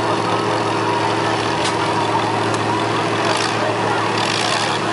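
Demolition derby cars' engines running together at a steady low rumble while the cars sit mostly still in the arena.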